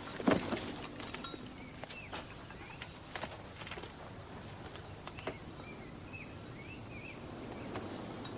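Small birds chirping in short up-and-down calls, with a few sharp knocks and taps scattered through, the loudest about a quarter-second in.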